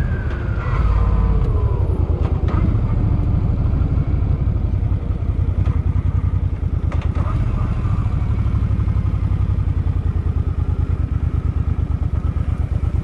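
Suzuki Boulevard M50's 805 cc V-twin engine slowing down, its pitch falling over the first few seconds, then idling with a fast, even beat.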